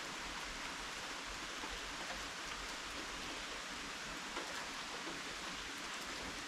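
Steady rainfall: an even hiss of rain with faint scattered drips and taps.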